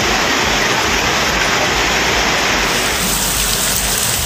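Heavy rain pouring down onto a waterlogged street, a steady, even hiss.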